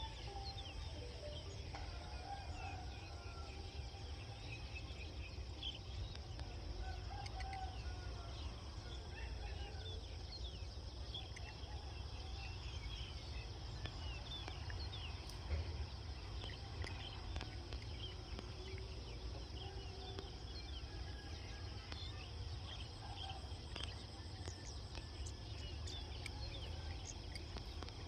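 Countryside ambience of birds calling: many short high chirps throughout, with lower clucking calls in the first few seconds, over a steady low rumble.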